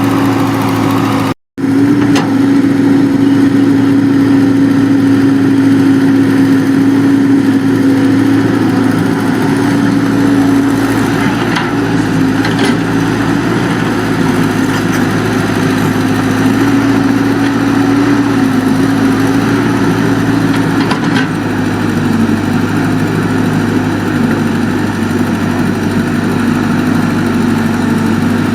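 Excavator's diesel engine running steadily at an even pitch, which sags slightly now and then. The sound cuts out for an instant about a second and a half in.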